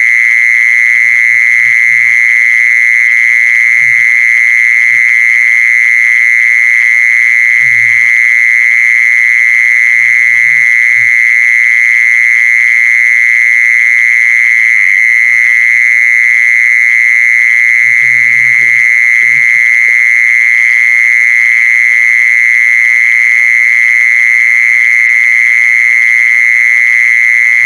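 An insect calling in one unbroken high-pitched trill, steady in pitch and loudness throughout, with a few faint low thumps underneath.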